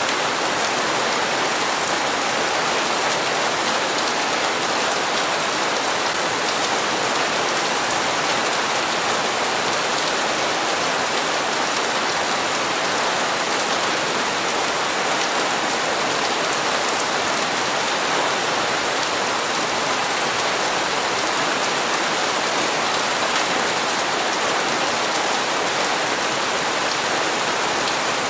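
Steady heavy rain falling and pattering on hard surfaces, an even hiss that does not change.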